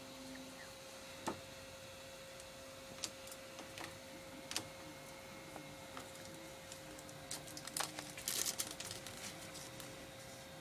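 Faint scattered clicks and taps over a steady hum, with a denser run of clicking and crackling about eight seconds in.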